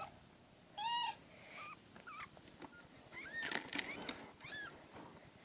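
Newborn kittens mewing: a series of short, high-pitched mews, one about a second in and a quicker run of several between about three and four and a half seconds in.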